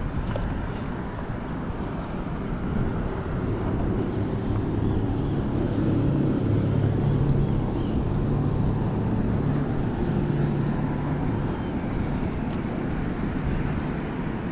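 Wind buffeting the microphone over a low engine drone that swells for several seconds in the middle and then eases off.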